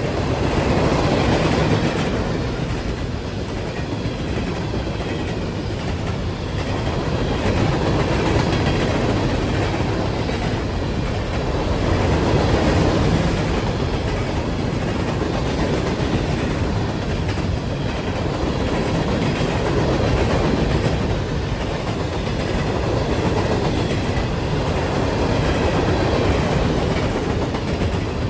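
A train rolling past on the track: a steady rumble of railroad cars with wheels clicking over the rail joints, swelling and easing every few seconds.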